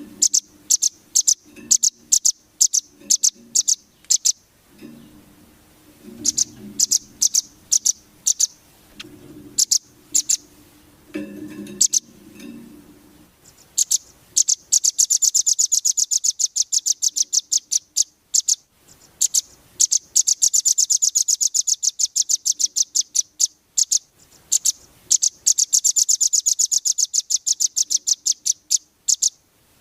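Songbird singing: sharp high chirps in quick irregular runs, breaking into long, very fast rattling trills about halfway through. This is a masteran recording, birdsong played to tutor caged songbirds.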